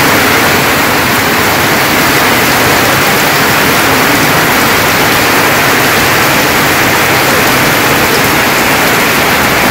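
Heavy rain pouring steadily onto corrugated tin roofs and a waterlogged yard: a loud, even hiss.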